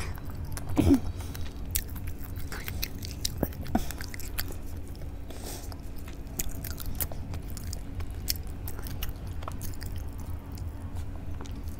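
Close-miked eating: a person chewing a mouthful of rice and fish, with wet smacks and many small mouth clicks over a steady low hum. One louder sound comes about a second in.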